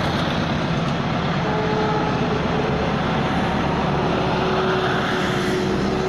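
Diesel-hauled passenger train passing on a curved mountain grade: a steady, loud run of engine rumble and wheel-on-rail noise, with a faint steady whine from about a second and a half in.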